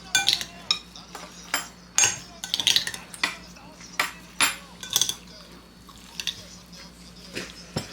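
Metal utensils clinking and scraping against dishes and a pot: about ten sharp, irregular clinks, some with a short ringing tail.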